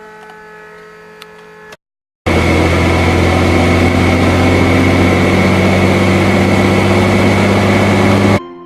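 Loud, steady helicopter engine and rotor noise heard from inside the cabin, with a strong even hum. It cuts in suddenly after a brief gap of silence about two seconds in and cuts off abruptly near the end.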